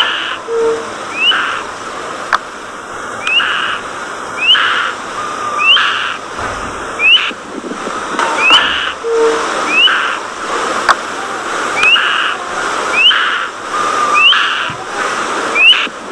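Budgerigars chirping, with a short rising whistled call repeated about once a second over a steady hiss.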